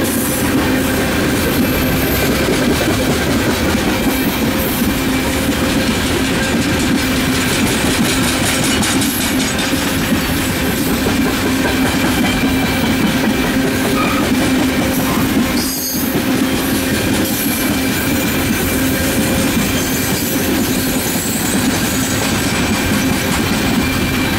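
Freight train of coal hopper and gondola cars rolling past at close range: steel wheels running over the rails with a steady clickety-clack and a steady ringing tone underneath.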